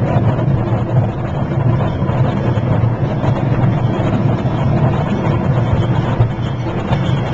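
Miniature park train running steadily under way, its engine giving an even, low drone with a rattling noise over it.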